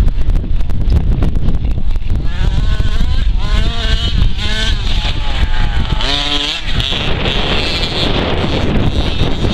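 The small engine of an FG Monster Truck 4WD radio-controlled model, revving up and down in short bursts. Its pitch rises and falls repeatedly in the middle of the stretch, under heavy wind noise on the microphone.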